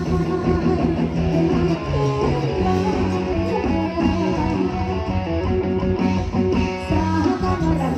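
Live band playing an instrumental passage: an electric guitar melody over bass guitar and a steady beat.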